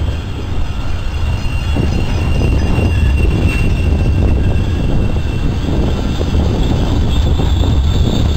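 Double-deck regional electric train rolling past close by: a loud, steady rumble of wheels on rail with a thin, steady high tone above it.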